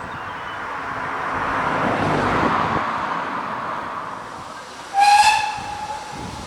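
Steam locomotive hissing steam, swelling and then dying away, then one short, loud blast of its steam whistle about five seconds in.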